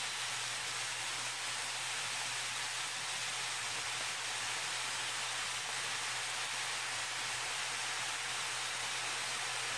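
Ground sausage and onions sizzling steadily in a frying pan as a continuous, even hiss.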